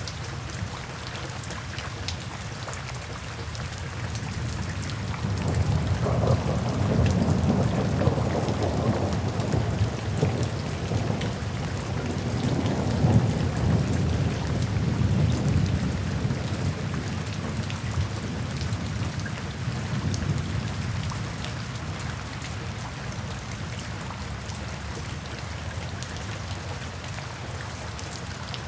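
Steady rain falling, with the tick of individual drops. About five seconds in, a long roll of thunder builds, swells twice and dies away by about twenty seconds.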